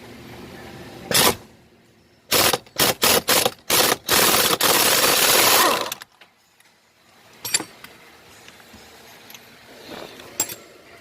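Power tool driving screws on a car's steering column: one short burst about a second in, a quick run of short pulses, then a steady run of about two seconds before it stops.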